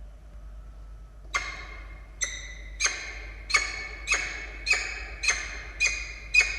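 Peregrine falcon calling: a run of nine sharp, repeated calls, a little under two a second, starting just over a second in.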